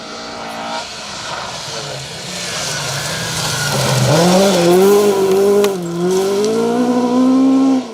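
Ford Escort Mk2 rally car at speed on a special stage, getting louder as it comes closer, its engine note dipping and climbing again through gear changes and lifts, with a hiss of tyre noise. The sound cuts off suddenly at the end.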